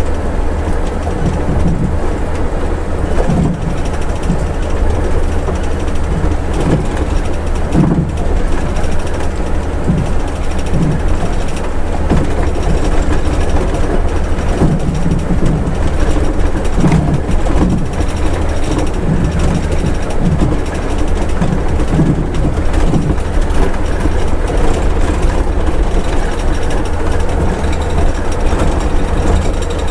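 Scania's diesel engine and road noise heard from the driver's cab on a mountain descent: a steady low rumble with irregular knocks and rattles from the cab.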